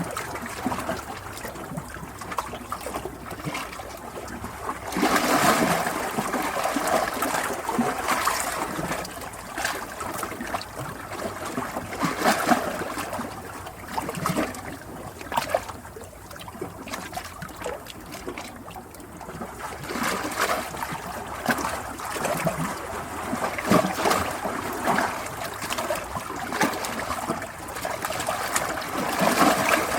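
Running water trickling and splashing, swelling and easing in uneven surges.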